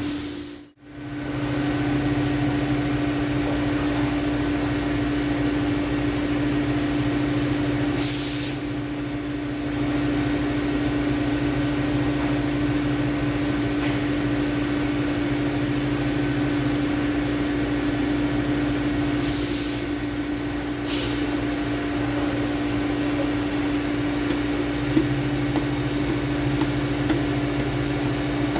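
Steady machine hum with a constant low tone, broken by three short hisses: the first about eight seconds in, two more close together around twenty seconds.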